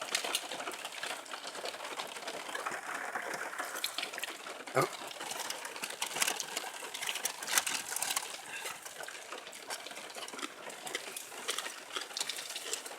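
Large wood bonfire burning, a steady hiss with dense crackling and popping, and one louder knock about five seconds in.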